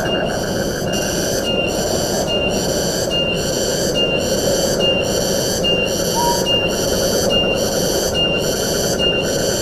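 Steady forest wind through the trees, with a high buzzing call pulsing on and off about once a second over it. One short higher note sounds about six seconds in.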